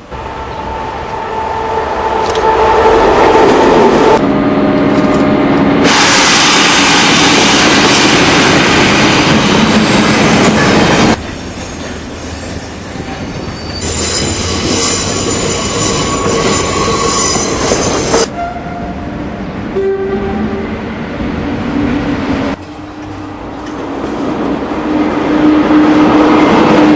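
Trains running and passing, with steady held tones and high-pitched wheel squeal, in a series of loud segments that cut abruptly from one to the next.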